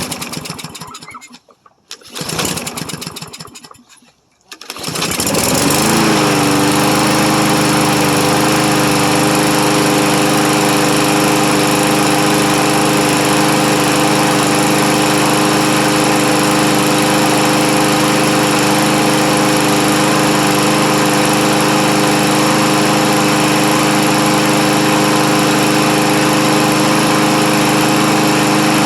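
Troy-Bilt walk-behind lawn mower's small engine being pull-started: two rough cranking attempts, then it catches about five seconds in, revs briefly and settles into a loud, steady run. The mower that wouldn't start is now running.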